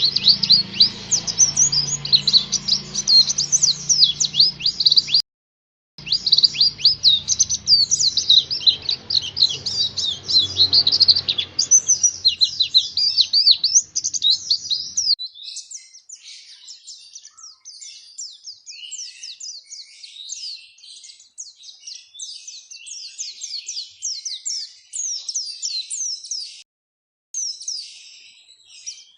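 White-eye (pleci) song: a fast, unbroken stream of high chirps and twitters. It drops out briefly about five seconds in. A low background hum under the song stops about fifteen seconds in.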